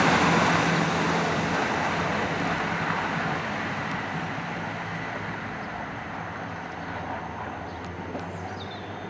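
Class 166 Networker Turbo diesel multiple unit running away along the line: its engine hum and wheel and track noise fade steadily as it recedes. The engine's low drone drops out about a second and a half in, and a few faint high chirps come near the end.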